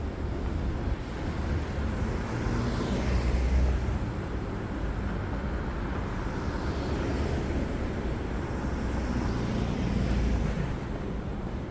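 City street traffic: a steady low rumble of engines and tyres, with vehicles passing close, swelling about three seconds in and again near the end.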